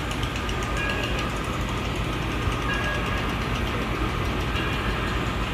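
Steady low mechanical rumble, like an engine or generator running, under a general outdoor hubbub with faint voices.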